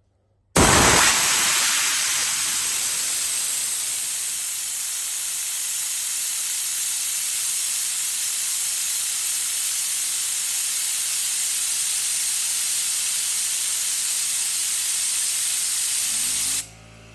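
Compressed air from a Husky air compressor being let out in a loud, steady hiss. It starts suddenly about half a second in and cuts off sharply near the end. Just before it stops, a low steady hum starts up.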